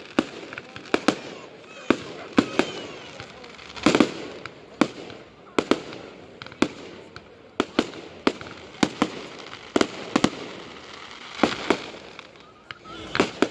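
Fireworks going off: an irregular run of sharp bangs and cracks, about two a second, with crackling between them.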